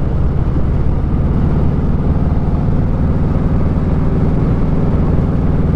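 Motorcycle engine running steadily at cruising speed, a constant low engine note under a steady rush of wind and road noise.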